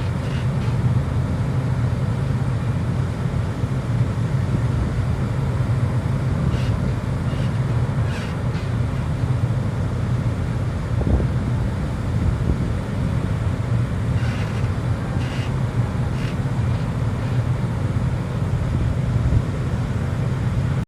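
Steady low drone on board a large ferry, engine rumble mixed with wind, with a few short high squeaks or creaks now and then.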